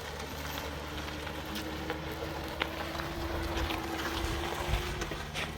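Faint steady drone of a small aircraft engine, with wind rumble on the microphone.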